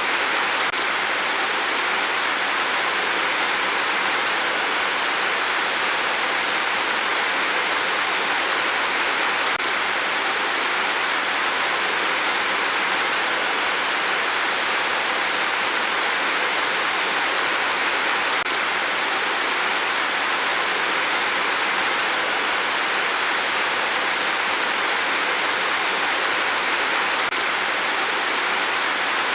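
Steady rain falling, an even unbroken hiss with no drops or gusts standing out.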